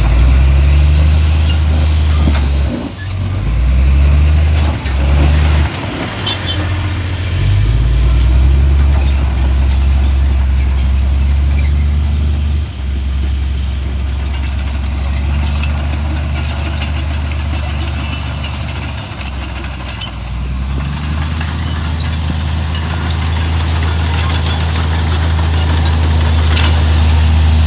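Heavy diesel earthmoving machine engine running with a deep, steady hum, its pitch and load shifting up and down several times in the first seven seconds, easing briefly near two-thirds of the way through and then building again. A few sharp metallic clanks are scattered through it.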